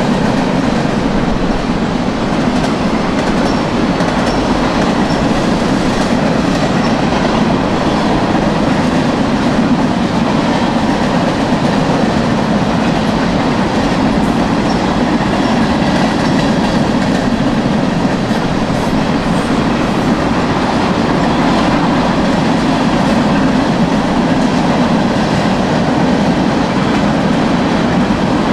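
Freight train cars rolling steadily past, steel wheels clacking on the rails.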